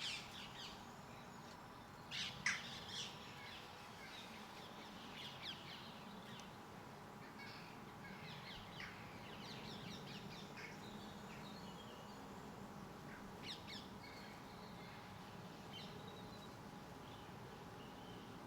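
Garden birds calling: a quick run of three loud, harsh calls about two seconds in, then scattered quieter chirps, with a couple more sharp calls later on.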